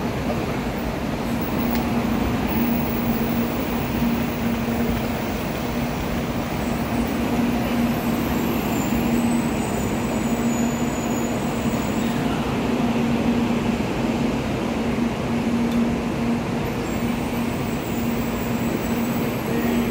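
N700-series Shinkansen train rolling into the platform as it comes in to stop: a steady rumbling noise with a constant low hum.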